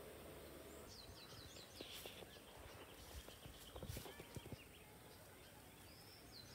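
Faint outdoor quiet in which a small bird gives two quick runs of short, high chirps, one about a second in and one near the end. A few soft clicks and rustles fall in between.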